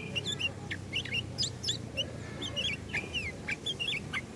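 Sooty-headed bulbuls calling: a quick, busy run of short, sharp chirps and whistled notes, over a low steady hum.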